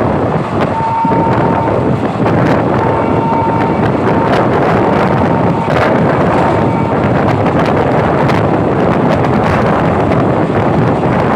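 A passenger train running, heard from on board, with wind buffeting the microphone and scattered clicks and rattles. A thin high tone comes and goes from about a second in until about seven seconds in.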